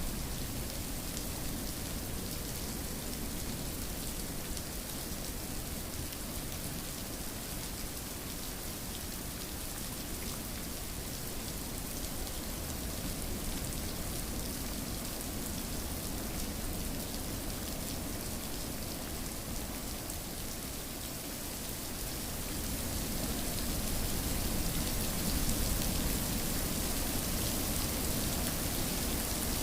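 Steady rainfall, an even hiss of drops that swells a little louder about three quarters of the way through.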